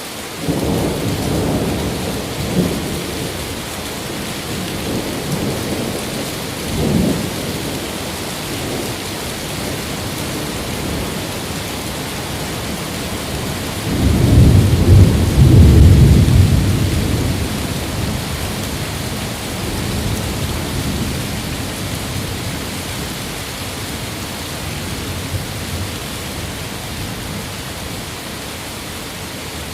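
Steady rain with rolling thunder: low rumbles near the start and about seven seconds in, and a much louder, longer peal about halfway through that slowly fades back into the rain.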